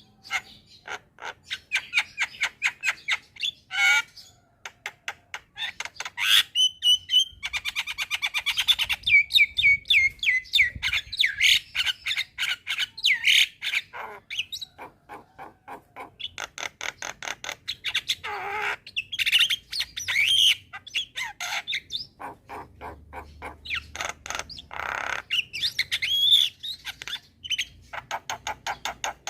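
Javan myna (jalak kebo) singing in full song: rapid strings of short chattering notes mixed with harsh squawks and whistled notes, with no pause.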